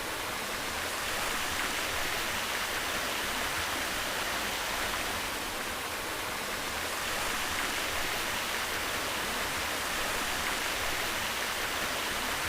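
Rushing water at the Bigar waterfall and spring, a steady, even rush that holds without a break.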